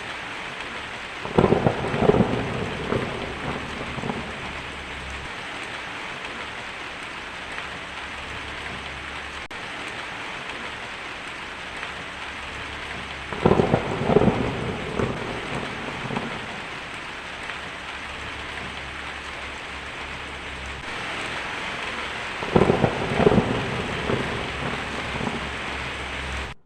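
Steady heavy rain falling, with three crackling claps of thunder rolling off: about a second in, midway, and near the end.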